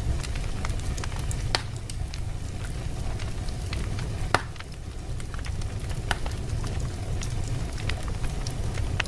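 Wood fire burning in a fireplace: a steady low rumble of flames with scattered crackles and pops, the sharpest about one and a half seconds in and just past four seconds.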